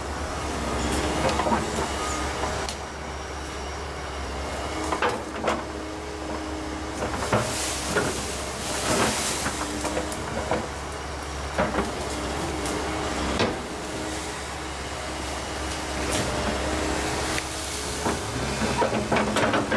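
Volvo ECR145EL diesel excavator running under working load with a steady low engine drone, punctuated by irregular sharp cracks and knocks scattered throughout.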